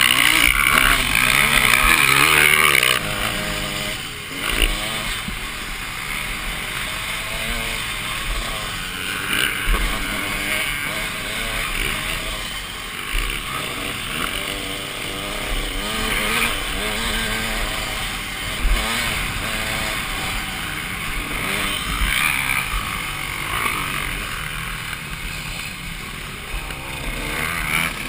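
Motocross bike engine heard from the rider's helmet, revving up and dropping back again and again as it is ridden round the track. It is loudest in the first three seconds.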